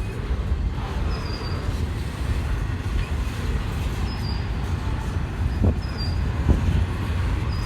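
Long freight train rolling slowly past, a steady low rumble of wheels on rail, with two knocks from the cars a little under a second apart past the middle.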